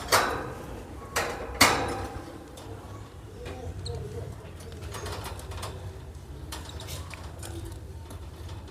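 Three sharp clicks or knocks in the first two seconds, then faint bird calls over a steady low hum.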